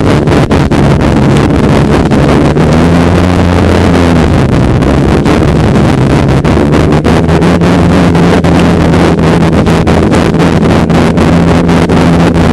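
Polaris snowmobile engine running steadily, its pitch rising briefly about three seconds in and dropping back, with wind noise on the microphone.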